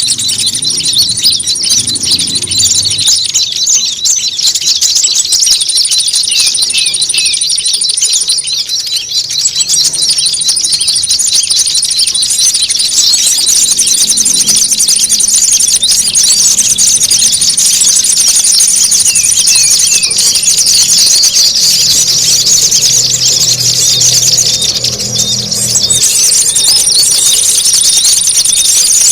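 A bird-lure recording of many small songbirds chattering and twittering together, fast and high-pitched, like an agitated squabbling flock. A thin, steady, high trill drops out and comes back every few seconds.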